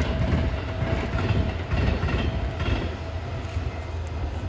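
Train rumbling, with a steady low hum and a thin steady tone. It grows louder just before this and eases off after about three seconds.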